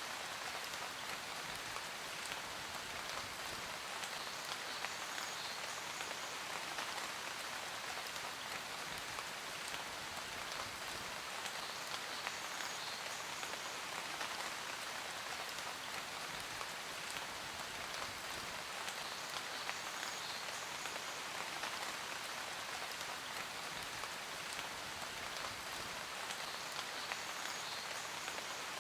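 Steady rain falling on a surface: an even hiss of many drops with fine pattering ticks, unchanging in level.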